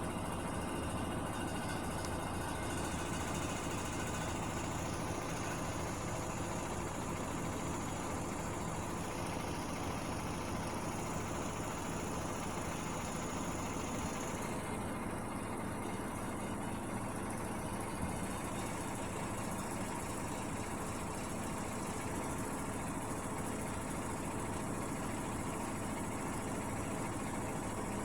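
Hotpoint Aquarius washing machine running with a steady, even hum and vibration. A faint high whine sits over it for about ten seconds in the first half.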